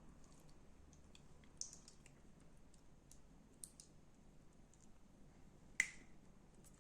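Faint, scattered clicks and crackles from slime being handled, with one sharper, louder click near the end.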